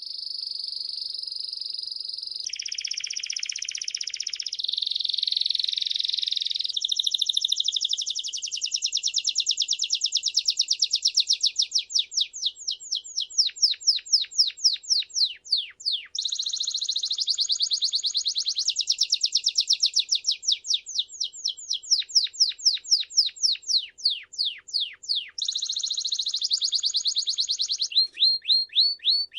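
A songbird singing a long, unbroken, high-pitched song of very rapid trills that change character every few seconds, broken by stretches of fast, separate downward-sliding notes.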